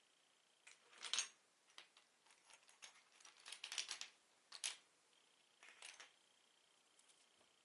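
Lego bricks being handled: soft, irregular plastic clicks and short rattles, with a loud cluster about a second in, a busier run in the middle and a few more clicks near the end.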